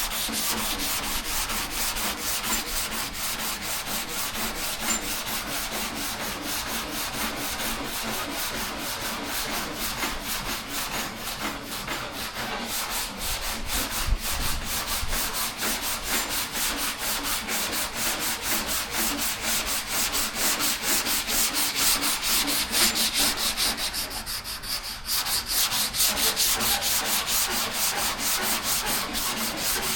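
Rhythmic rasping of 180-grit sandpaper on a hand sanding block, rubbed back and forth over primer on a car body panel, with a brief pause near the end of the stretch and one small knock midway.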